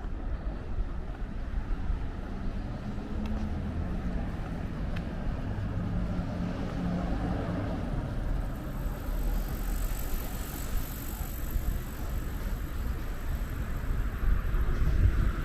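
Street traffic: motor vehicles running and passing with a steady low rumble. A thin high whine comes in about halfway through, and the traffic grows louder near the end.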